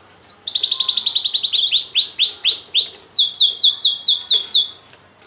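Male canary singing: a string of rapid trills, each phrase a run of quickly repeated notes at its own speed and pitch, moving from fast buzzy strokes to slower swooping notes and then quick falling sweeps, ending just before five seconds in.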